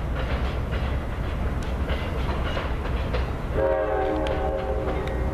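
Amtrak passenger train rolling out with a steady low rumble and a few wheel clicks on the rail joints. About three and a half seconds in, a multi-note locomotive air horn starts sounding and holds as a steady chord.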